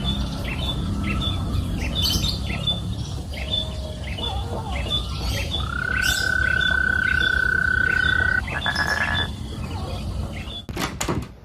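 Birds chirping: a short chirp repeats about twice a second over a steady low background rumble. A long, steady whistle is held for a few seconds in the middle, and a few sharp clicks come near the end.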